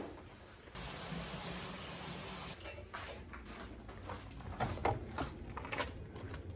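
Water running from a tap for about two seconds, then stopping. This is followed by scattered light knocks and clicks of dishes being handled during washing up.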